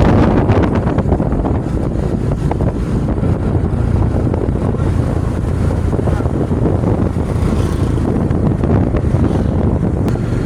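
Steady wind noise buffeting the microphone on a moving motorcycle, with the engine running low underneath.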